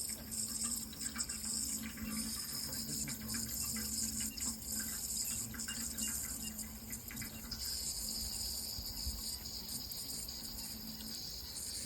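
Running water flowing steadily, with a constant high-pitched hiss or drone above it.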